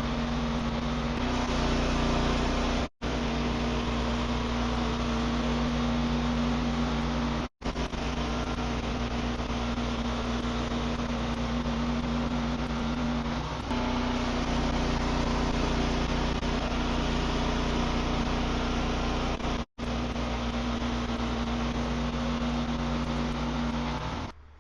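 Wood-Mizer band sawmill running steadily: a continuous engine drone with one strong steady tone, broken three times by a brief, abrupt gap.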